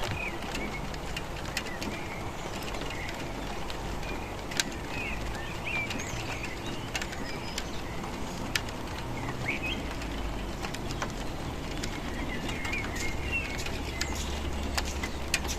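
Steady rain falling, with scattered drops ticking sharply on a hard surface and short bird chirps coming and going every few seconds over a low steady rumble.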